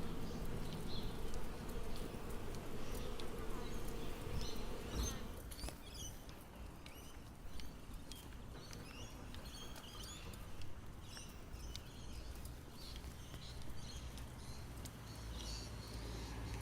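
Outdoor nature ambience: scattered short, high bird chirps over a steady low hum, with the chirps growing more frequent about five seconds in.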